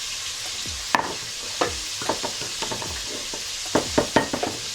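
Chicken wings deep-frying in hot oil: a steady sizzle with scattered sharp pops, several in quick succession near the end.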